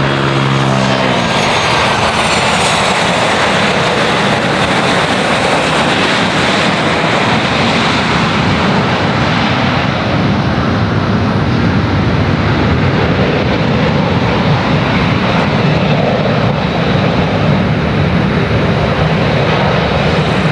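Boeing 777 jet airliner passing close on its landing approach: the engine tones drop in pitch in the first couple of seconds as it goes by, then a steady broad jet roar that loses some of its high hiss after about eight seconds.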